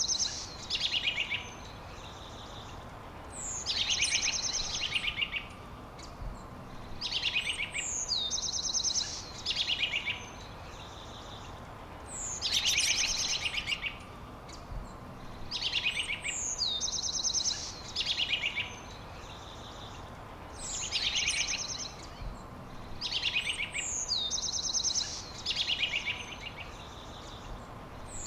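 A songbird singing the same short, high song over and over, one phrase every few seconds: each phrase is a whistle sliding down, then a quick buzzy trill. A faint steady hiss lies underneath.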